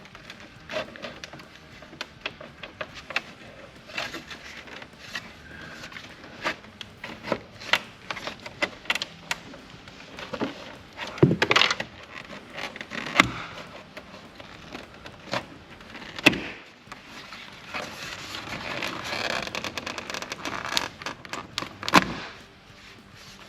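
Plastic map pocket being unclipped and pried off the dashboard of a 1992 Pontiac Firebird: a string of clicks, scrapes and knocks of plastic trim, with a few sharper snaps as clips let go.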